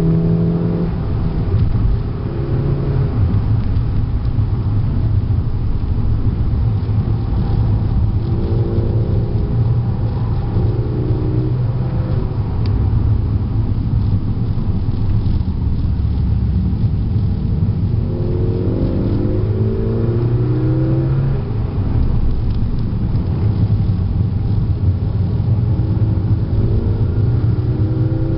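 Volkswagen Golf GTI Mk6's turbocharged 2.0-litre four-cylinder, tuned with an APR K04 turbo, ECU and modified 3-inch downpipe and exhaust, heard from inside the cabin while driven on track. The engine note rises under acceleration several times and drops back between pulls, over steady road noise.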